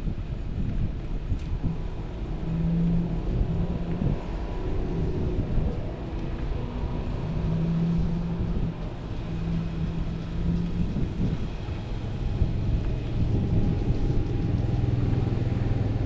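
Electric scooter riding along: a steady low rumble of road and wind noise, with a low hum that comes and goes and settles into a steadier, lower hum after about twelve seconds.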